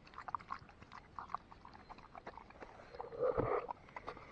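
A dog eating from its bowl: quick wet chewing, licking and smacking clicks, with one louder noise about three seconds in.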